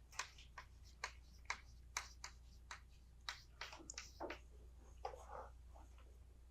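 Near silence broken by about a dozen faint, irregular taps and short strokes of a writing implement on a drawing surface.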